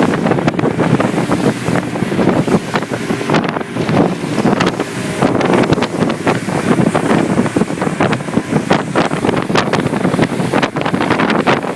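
Wind buffeting the microphone over choppy water splashing, with frequent short gusts and splashes and no engine note.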